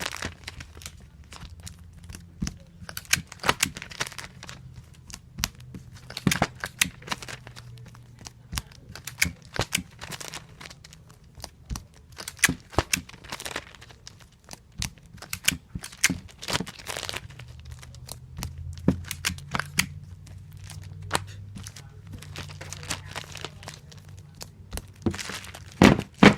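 Clear tape being pulled off a tape dispenser and torn off against its cutter, again and again, in irregular bursts of short sharp clicks and rips.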